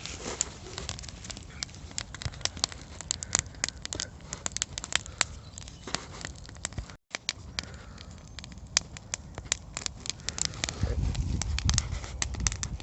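Campfire crackling, with many sharp irregular pops and snaps of burning wood. A low rumble swells in near the end.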